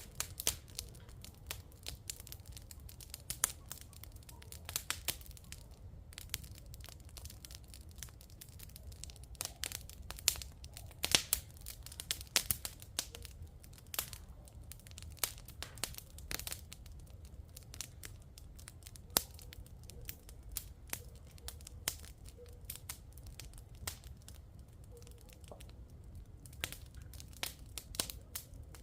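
Wood fire crackling, with irregular sharp pops over a low, steady rumble.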